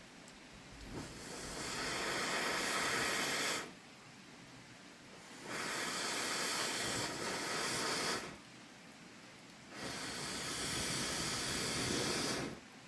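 Three long hissing rushes of air, each lasting about three seconds, with short quiet pauses between them.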